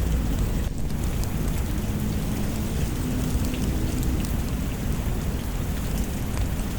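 Steady rain falling, with a low rumble of thunder underneath and scattered sharp ticks throughout.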